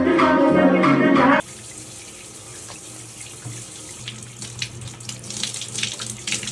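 Background music cuts off abruptly about a second and a half in. A tap then runs water into a sink, with irregular splashes from about four seconds in.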